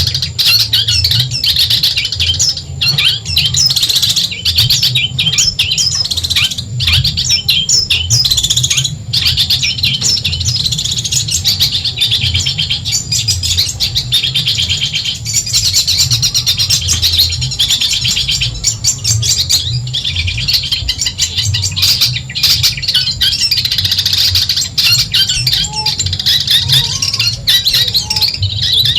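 Long-tailed shrike (cendet) singing a continuous, rapid, high chattering song with brief pauses, over a low steady hum.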